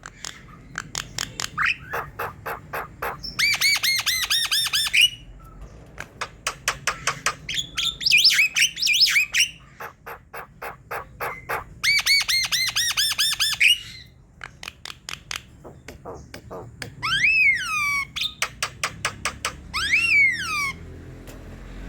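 Javan myna (jalak kebo) singing at full song: fast runs of rattling clicks and harsh chattering phrases, with two long down-slurred whistles near the end.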